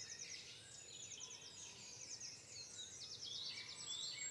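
Songbirds singing faintly: high, rapid trills and chirps in repeated series, several overlapping.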